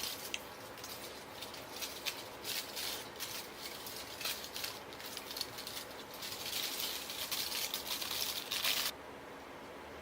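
Aluminium foil crinkling and rustling in quick, irregular crackles as sections of bleach-coated hair are wrapped in it; it cuts off abruptly near the end.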